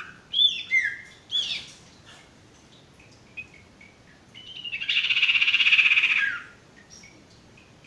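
Sirtu bird calling: several short whistled chirps gliding downward in the first second and a half, then a loud, rapid buzzing trill lasting about two seconds in the middle, with faint scattered chirps around it.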